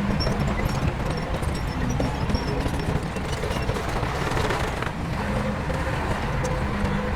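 Diesel engines of heavy earthmoving machinery running steadily under load, a dense, mostly low-pitched sound with no pauses.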